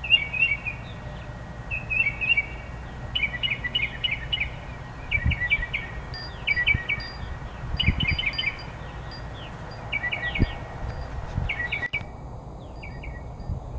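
A songbird singing, repeating short phrases of quick high notes about once a second.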